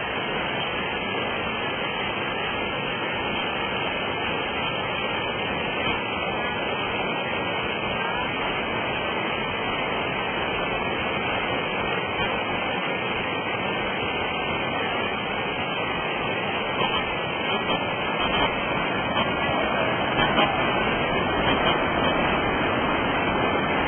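Waterfall rushing: a steady, even wash of falling water, growing slightly louder near the end.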